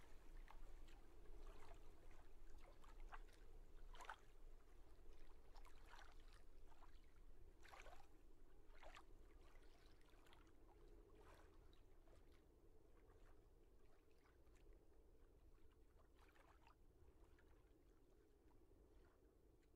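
Faint sea water sound: waves lapping and splashing, with scattered short splashes over a steady low rumble, growing quieter in the second half.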